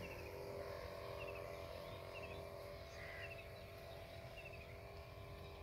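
A small bird repeating a short, high chirping phrase of three or four quick notes about once a second, over a low rumble of wind and a steady hum.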